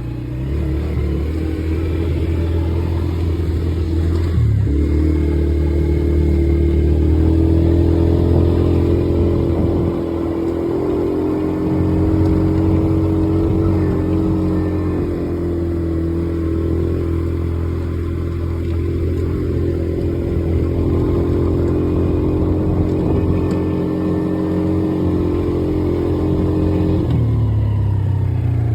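Polaris quad bike engine running while the quad is ridden. Its pitch rises about four and a half seconds in, holds fairly steady, and drops near the end.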